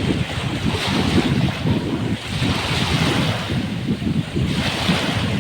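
Sea surf washing onto the beach, its hiss swelling and falling about every two seconds, under a constant rumble of wind buffeting the microphone.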